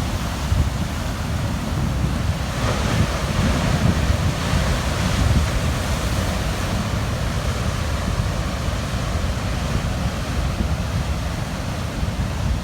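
Big ocean waves crashing and churning on a rocky shore, with wind buffeting the microphone as a low rumble. A wave breaks about two and a half seconds in, and its hissing wash carries on for several seconds.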